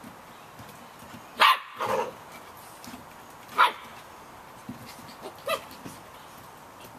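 Samoyed puppies yapping: a sharp yap about a second and a half in with a lower bark right after it, another sharp yap a couple of seconds later, and a smaller one near the end.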